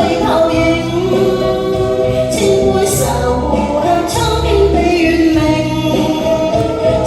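A song: singing in long held notes over instrumental accompaniment with a steady low bass line.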